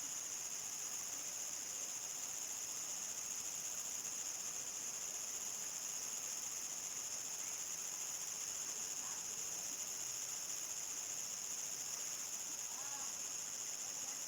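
A chorus of crickets chirring in one steady, unbroken high-pitched drone, with a few faint short calls in the background about two-thirds of the way through and near the end.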